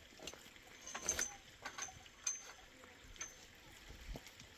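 A few irregular light knocks and clinks, some with a brief high ring, about five over four seconds, the loudest about a second in.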